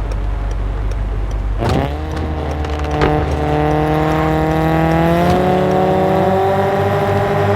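Straight-piped VW Golf Mk7's exhaust with the engine running under way. About two seconds in there is a short sharp crack and the engine note dips, then it climbs slowly and steadily as the revs build.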